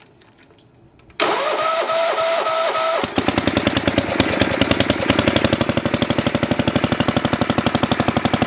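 Sears ST10 garden tractor engine cold-started on choke. About a second in, the electric starter cranks with a pulsing whine for about two seconds. Then the engine catches and settles into a fast, steady run on choke, which the owner expects to be rich at first.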